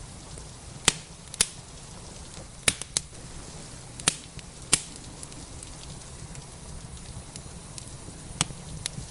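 Wood fire crackling, with about eight sharp pops, most of them in the first five seconds, over a steady hiss of rain.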